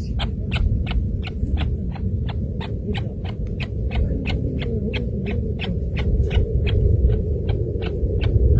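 Chukar partridge calling a long, even series of short "chuk" notes, about four a second, over a steady low rumble.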